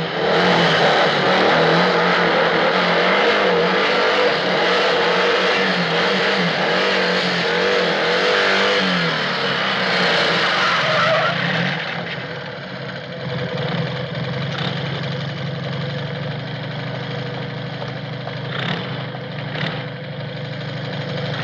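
Motorcycle-and-sidecar engine running under way, its pitch rising and falling. About twelve seconds in it drops to a quieter, steady idle as the outfit stands still.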